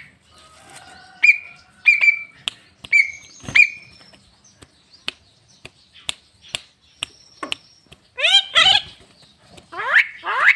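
Javan myna (jalak kebo) calling: a few short whistled notes in the first seconds, then two loud rising, squawky calls near the end, with sharp clicks in between.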